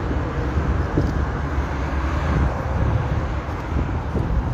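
Steady outdoor background noise: a continuous low rumble with hiss on top.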